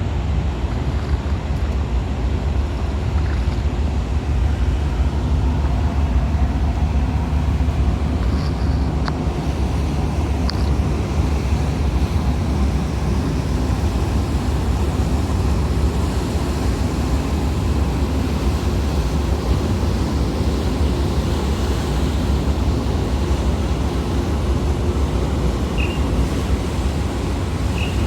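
Large car ferry's engines giving a steady, deep rumble as the ship gets under way, with wind and water noise over it. A few brief, faint high tones sound around a third of the way in and again near the end.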